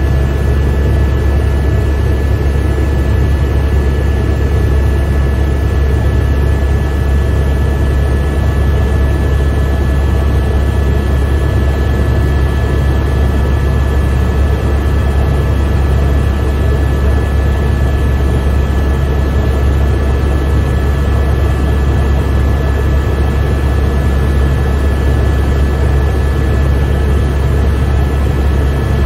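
Helicopter in flight heard from inside the cabin: a loud, steady rotor-and-engine drone with a constant high whine over it.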